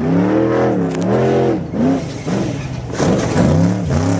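Trophy truck's engine revving hard, its pitch rising and falling several times in quick succession as the throttle is worked on and off.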